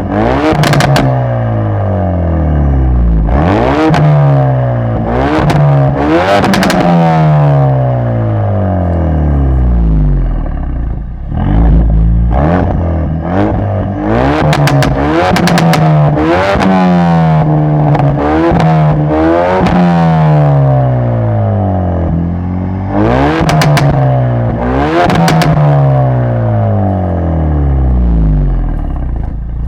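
Ford Focus RS MK3's 2.3-litre turbocharged four-cylinder engine, through an aftermarket exhaust, being revved again and again: about a dozen quick rises in pitch, each falling back slowly. There are sharp crackles and pops around many of the blips.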